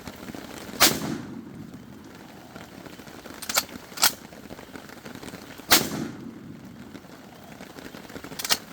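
Two loud shots from a VR60 12-gauge semi-automatic shotgun about five seconds apart, each with a short low rumble after it, and a few thinner, sharper cracks between and near the end. The shotgun is failing to cycle on the non-slug shells being fired.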